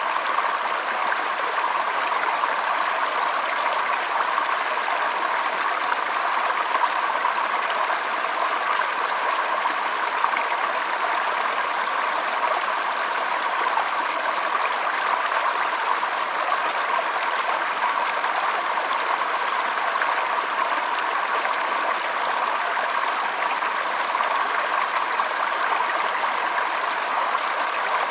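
Shallow stream flowing and trickling over stones, a steady even rush of water.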